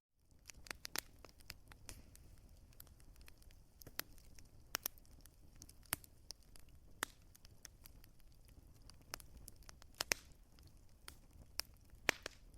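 Wood fire crackling: irregular sharp pops and snaps, a few louder than the rest, over a low steady rumble of burning logs.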